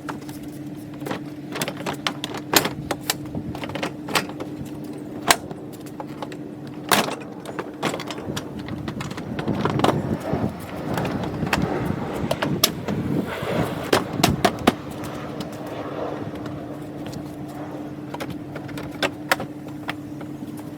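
Plastic front bumper cover of a Honda Element being fitted back on by hand: a run of sharp clicks and knocks as it is pushed and snapped into place, with a stretch of rustling and scraping handling in the middle, over a steady hum.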